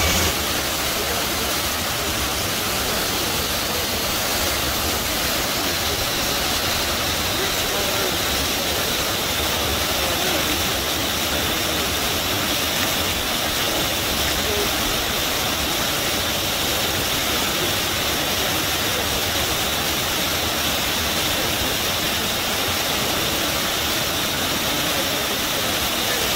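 River water rushing and gushing steadily, with no change in level.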